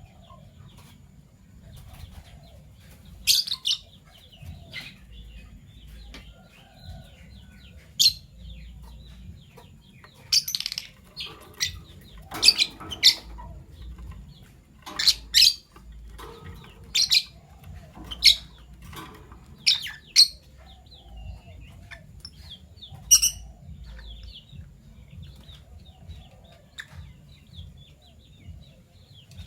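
Fischer's lovebirds giving short, shrill chirps, about a dozen at irregular intervals and bunched in the middle, over a faint low hum.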